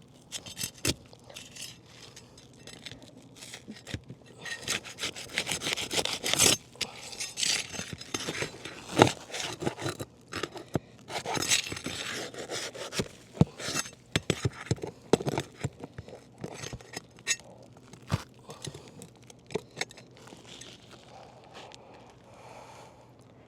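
Roof shingles being scraped and pried loose with a bar: irregular rubbing and scraping with sharp clicks and knocks, busiest in the middle and tapering off near the end.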